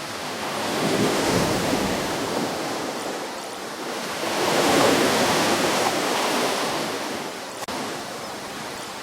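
Ocean waves breaking and washing up a shore. Two swells of surf come about a second in and again around four to five seconds in, ebbing back between them.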